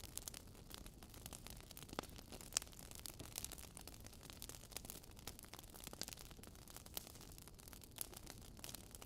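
Wood fire in a fireplace crackling: a soft steady hiss with irregular sharp pops and snaps, a few louder ones scattered through.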